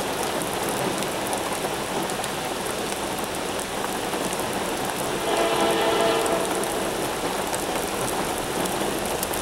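Heavy rain falling on pavement, a steady hiss. About five seconds in, a Norfolk Southern freight locomotive's horn sounds one blast of about a second, a chord of several tones, above the rain.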